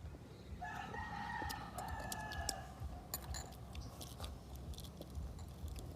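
A rooster crows once, a call of about two seconds, while sharp little clicks of chewing and mouth sounds from eating go on throughout.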